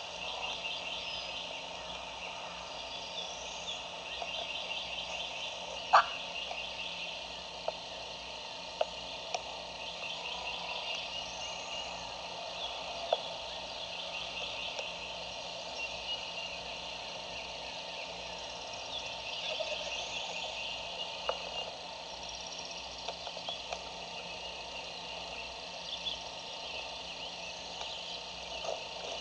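Wild turkey tom gobbling faintly several times, unusually soft for a gobble, over a steady background of small chirping calls. A few sharp clicks, one louder about six seconds in.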